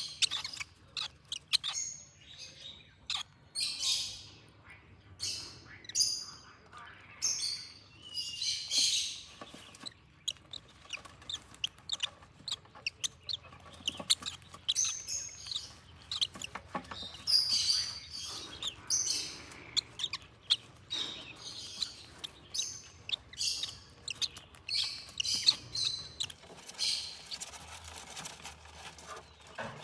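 Parrot chicks chirping repeatedly in short, high-pitched calls as they beg while being hand-fed formula, with small clicks and taps in between.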